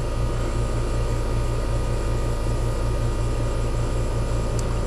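A 2.5-ton R-410A air-conditioning condenser running steadily: a low hum from the compressor and condenser fan with an even, regular throb. No abnormal noise is heard; the unit is cooling normally with good pressures.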